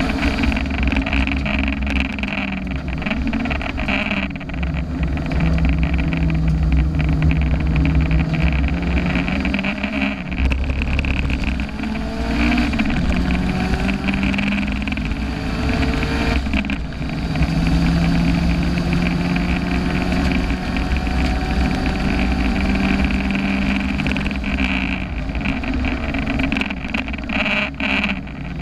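Onboard sound of a turbocharged car engine driven hard on a race track. It climbs in pitch through the gears, with gear changes about 4, 10 and 16 seconds in, over heavy wind and road noise.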